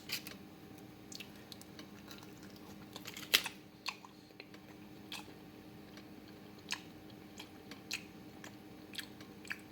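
A person chewing bites of air-fried pizza with a crisp crust: scattered short crunches, the loudest about three and a half seconds in, over a faint steady hum.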